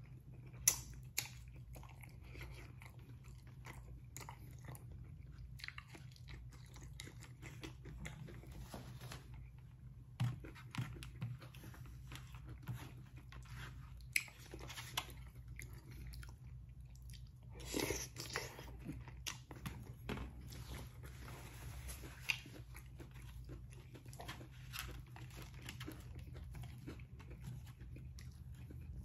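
A man chewing mouthfuls of brisket stir-fry and rice, with short clicks and scrapes of a spoon on a paper plate scattered throughout. A steady low hum lies underneath.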